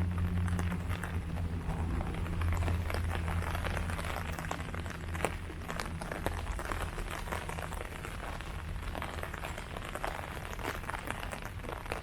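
Steady rain falling on leaves, with many separate drops ticking irregularly over the hiss. A low steady hum underneath fades away over the first half.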